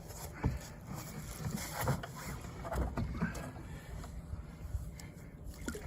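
Water splashing and lapping beside a small boat during the release of a landed shark, with a low wind rumble on the microphone and a few soft knocks scattered through it.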